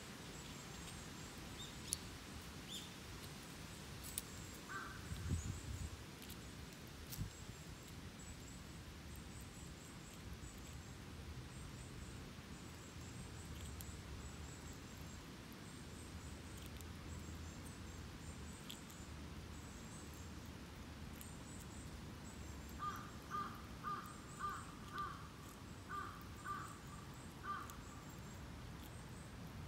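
Park ambience with faint, high chirping of small birds throughout. Near the end a bird gives a series of about eight short calls, roughly two a second.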